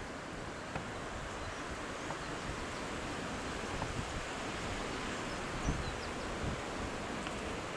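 Steady outdoor background noise, a hiss like wind on the microphone, with a few faint scattered knocks, the clearest a low one a little before the end.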